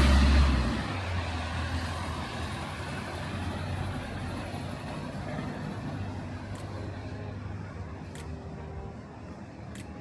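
Street traffic: a vehicle passes close at the very start with a loud low rumble, then a steady wash of traffic noise slowly fades. Three faint sharp ticks come in the last few seconds.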